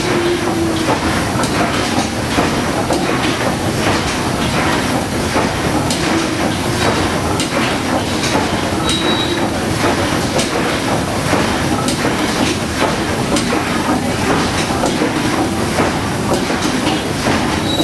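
Steam engine of the paddle steamer Waverley running steadily, a continuous rhythmic mechanical clatter of many knocks and clicks over a steady hum.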